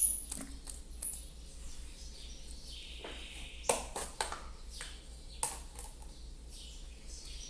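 Soft, sticky slime being squeezed and stretched by hand, giving scattered wet clicks and pops.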